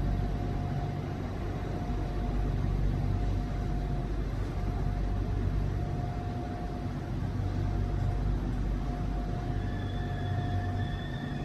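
Electric commuter train heard from inside the cabin: a steady rumble with a steady whine. About ten seconds in, a higher whine sets in.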